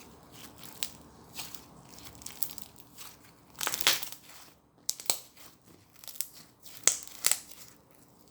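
Milk slime mixed with foam being squished and worked, giving scattered crackles and sticky pops. A longer crackling stretch comes just before the middle, and sharper pops come later.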